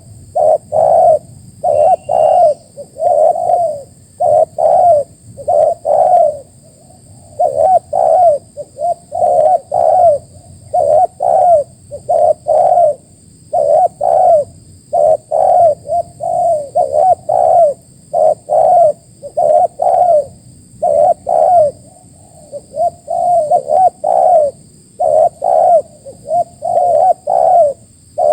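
Spotted doves (tekukur) cooing over and over in quick, closely spaced phrases.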